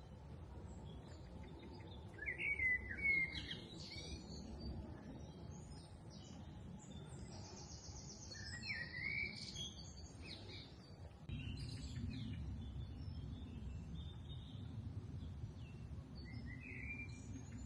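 Outdoor ambience of several birds calling, short chirps and quick warbled phrases, the loudest burst about two to three seconds in and another cluster around eight to ten seconds in. Beneath them runs a steady low rumble that grows louder about eleven seconds in.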